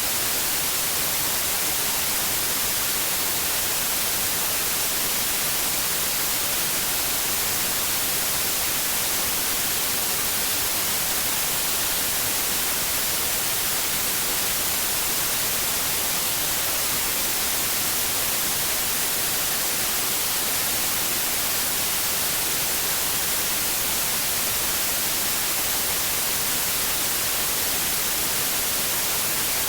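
Steady white noise: an even, unbroken hiss, brightest in the high end, played as a sleep aid for infants.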